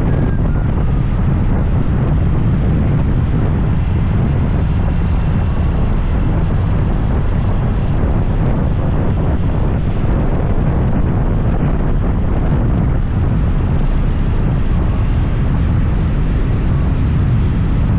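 Steady ride noise from a moving scooter: a low wind rumble on the microphone mixed with engine and road noise.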